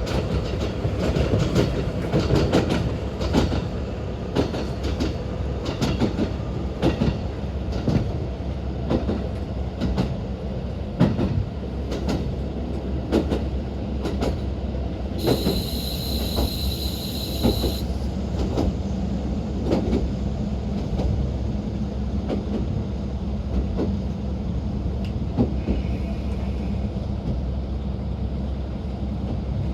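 Interior of a JR Hokkaido KiHa 40 diesel railcar running along the line: a steady diesel rumble under repeated wheel clacks over rail joints. Midway, a high steady tone sounds for about two and a half seconds.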